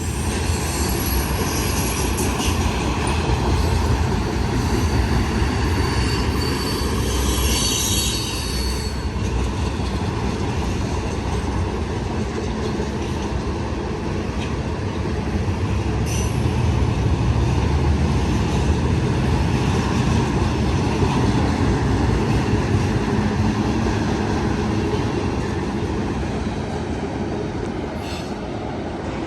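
Long CN freight train's cars rolling past on steel rails, a continuous rumble with high-pitched wheel squeal through the first nine seconds or so.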